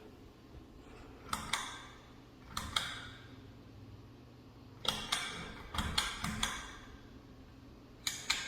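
Hunter Ridgefield II ceiling fan running with a low steady hum, with short irregular clicks and rustles every second or two.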